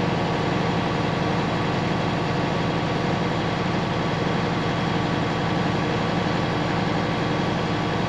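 International DT466 inline-six diesel engine in a 1986 International dump truck idling steadily, driving the newly fitted air compressor as it builds air-tank pressure.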